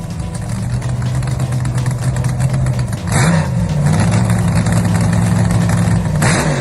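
Car engine idling with a steady low rumble, blipped twice: a quick rev about three seconds in and another near the end.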